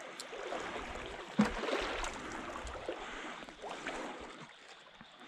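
Shallow creek water sloshing and trickling, with one sharper knock about a second and a half in.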